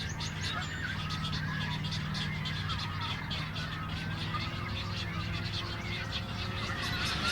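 Nesting colony of egrets, night-herons and cormorants: many birds squawking, croaking and clicking at once in a continuous din, over a steady low hum.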